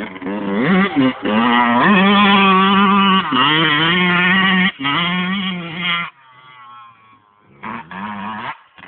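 Two-stroke motocross bike engine revving hard: the pitch climbs twice in the first few seconds, holds high and steady, then drops off about six seconds in before a short burst of throttle near the end.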